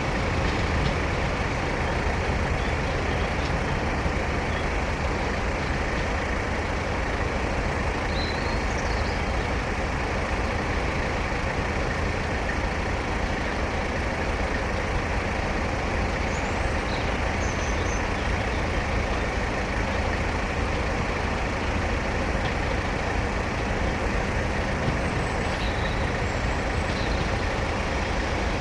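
Steady low rumble of a train's engine and running noise, with a few faint, short high chirps over it.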